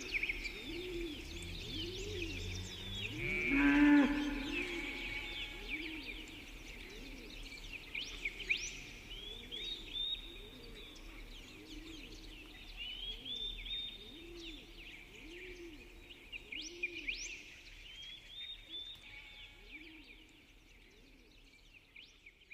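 Many birds chirping and singing, with a cow mooing once about three and a half seconds in and a low call repeating about once a second underneath; the whole soundscape fades out toward the end.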